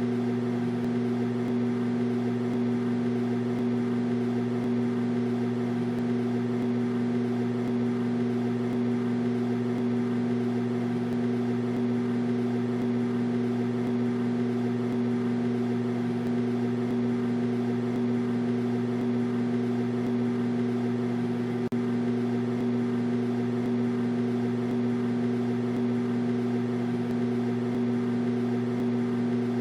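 Microwave oven running: a steady, even hum that never changes.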